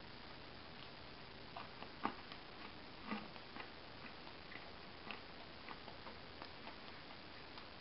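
Faint, irregular clicks and crunches of a man chewing a mouthful of crispy-coated chicken, over a steady hiss.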